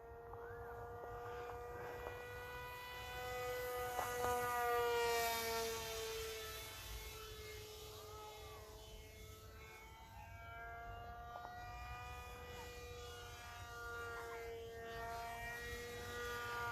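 Whine of a small RC plane's Racerstar BR2403 2300KV brushless motor spinning a 6x4.5-inch propeller in flight. Its pitch wavers slightly, and it grows louder and fades as the plane passes, loudest about four to six seconds in.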